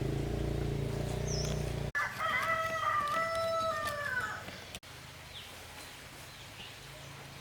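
A rooster crows once, one long call lasting about two and a half seconds. Before it, a steady low machine hum runs and cuts off abruptly just before the crow.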